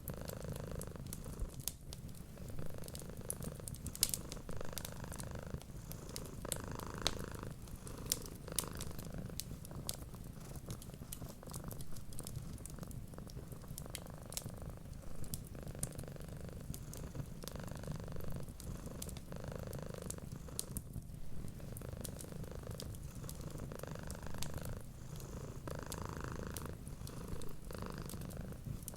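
Domestic cat purring steadily: a low rumble that swells and eases with each breath. Scattered sharp crackles of a wood fire sound over it.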